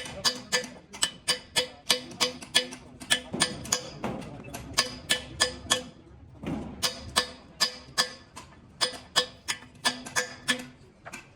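Hammer blows on steel, about three a second, each with a ringing clang, in a few short runs with brief pauses between them. This is typical of a truck wheel rim being worked on while its tyre and tube are changed.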